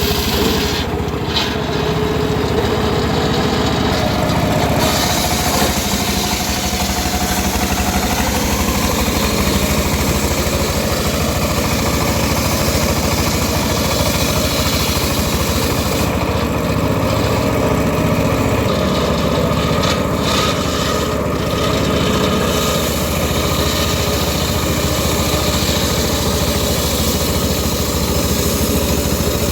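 Engine of a home-built circular sawmill running steadily, its tone shifting slightly a few times.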